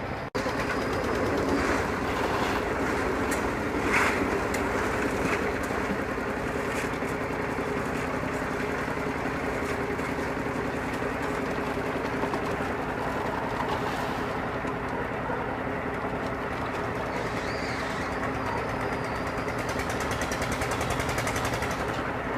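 Construction machinery engine running steadily, with a few short knocks, the loudest about four seconds in.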